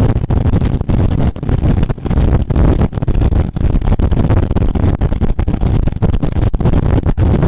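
Wind buffeting a camera microphone on a moving racing bicycle: a loud, steady rumble with rapid, irregular flutter.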